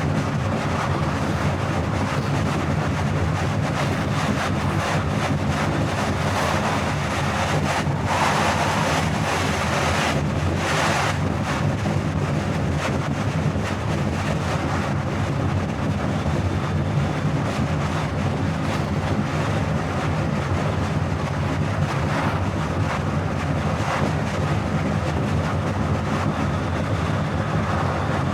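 Steady driving noise of a car at highway speed: a constant low engine and tyre drone with a rush of wind and road noise. The rush swells for a few seconds about eight to eleven seconds in.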